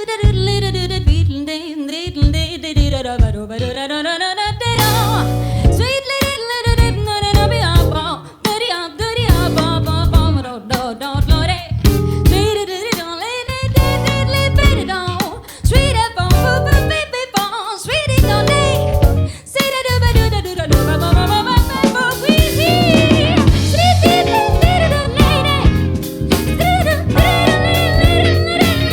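Live band music: drum kit and bass keeping a steady groove under a gliding, wavering melodic lead line, with no sung words.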